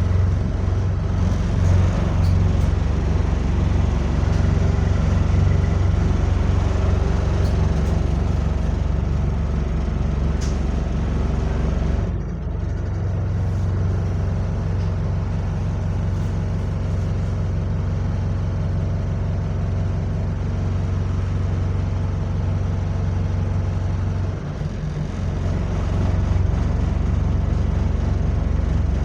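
Diesel bus engine running steadily with a low drone. Its sound drops briefly about twelve seconds in and again near twenty-five seconds.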